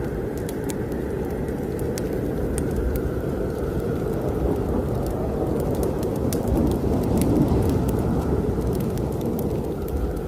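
Snowstorm wind rushing steadily and swelling a little past the middle, with a wood fire crackling in many sharp, scattered pops over it.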